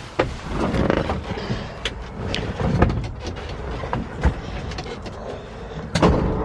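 1951 Ford F-1's flathead V8 being started on its 6-volt system: a low mechanical rumble with clicks, then the engine catches about six seconds in and runs with a steady low rumble.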